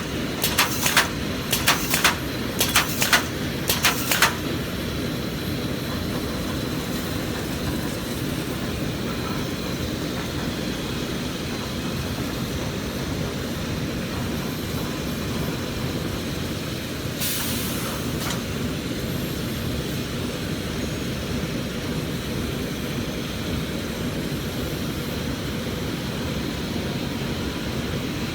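Automatic wire mesh welding line running with a steady mechanical hum and rumble. In the first four seconds there is a run of sharp clacks about two a second, and a short hiss a little past the middle.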